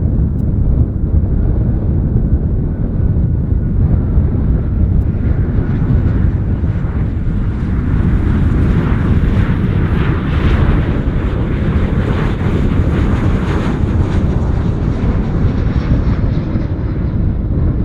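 Jet airliner on approach to land flying past: its engine noise swells to a peak about ten seconds in, with a faint whine, then fades. Under it runs a steady low rumble of wind on the microphone.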